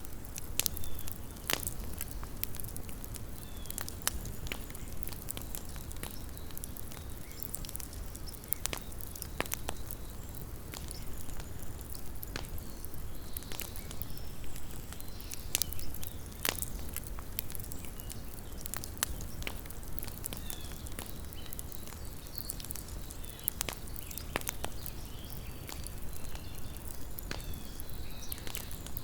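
Small wood campfire burning, with irregular sharp crackles and pops over a low steady rumble of the flames.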